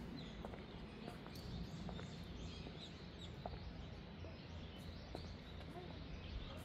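Faint outdoor ambience with small birds chirping now and then over a low, steady background noise.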